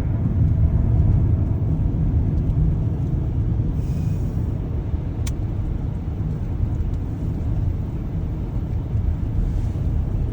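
Steady low rumble of a car's engine and road noise heard from inside the moving vehicle, with a single sharp click about halfway through.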